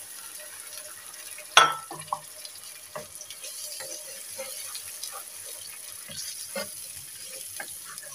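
Fresh tomato paste sizzling gently in hot oil in a kadhai as a spatula stirs it through fried onions, with a sharp knock about one and a half seconds in and a few lighter taps of the spatula on the pan.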